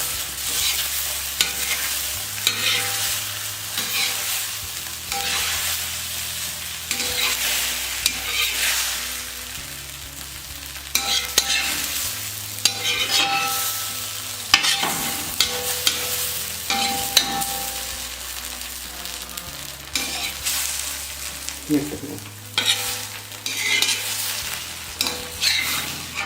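Egg kalakki sizzling in a hot pan while a metal spatula stirs and scrapes it, mixing in the gravy, with frequent sharp scraping ticks over a steady sizzle.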